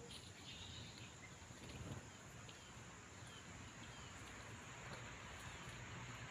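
Faint outdoor ambience: a steady low hiss with a few short, faint bird chirps.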